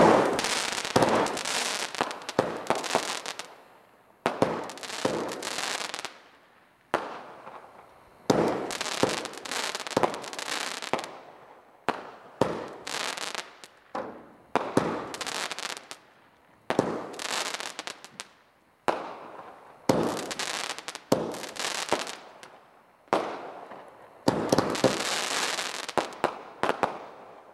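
"Perpetual Motion" multi-shot fireworks cake firing, volley after volley about every two seconds. Each volley starts with a sharp report and tails off over a second or two into a dense run of crackling.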